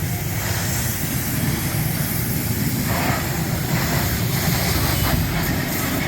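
Steady low mechanical rumble with a continuous hiss over it, a little louder for a moment about halfway through.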